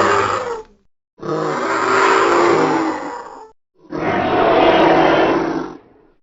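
Designed Hatzegopteryx creature sound effects: rough, roaring calls, the end of one call fading out under a second in, then two more calls of about two seconds each separated by short silences.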